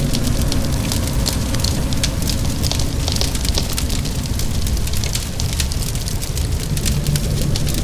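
Wood fire crackling, with frequent small sharp pops over a steady low rumble, mixed with rain.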